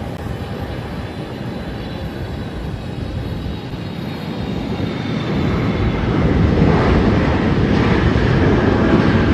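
Jet airliner engine noise: a steady rushing roar with a faint high whine above it, growing louder in the second half.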